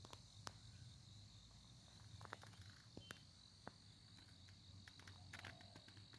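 Faint field ambience: a steady high-pitched chirring of crickets or similar insects, with a few soft scattered clicks.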